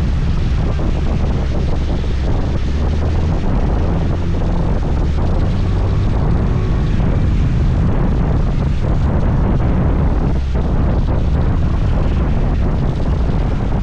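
Steady wind rumble on the microphone of a moving scooter, over the scooter's engine and road noise.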